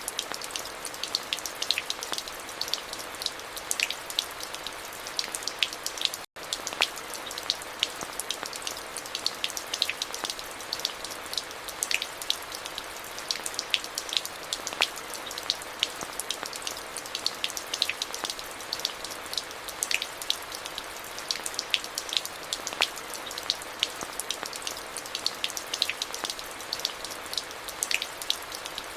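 Steady rain falling, with many individual drops ticking sharply on a hard surface over an even hiss. The sound cuts out for a split second about six seconds in.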